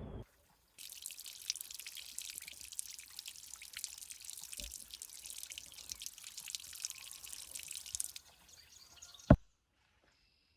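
Dense, crackling patter of water drops lasting about seven seconds, followed by a single sharp click near the end.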